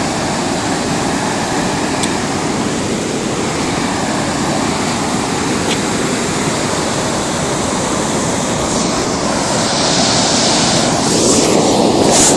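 Steady rush of the fast-flowing, swollen River Taff in flood, close to breaking its banks; the rushing grows a little louder near the end.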